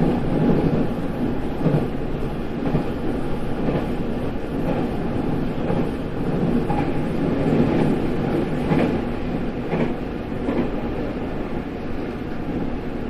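JR 313 series electric train running, heard from inside the driver's cab: a steady rumble of wheels on rail with a few sharp clacks as the wheels cross rail joints.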